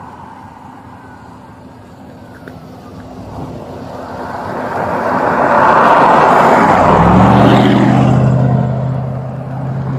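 A vehicle passing on the road: its road noise swells to a peak about six to eight seconds in and then eases off. A steady low engine drone comes in about seven seconds in.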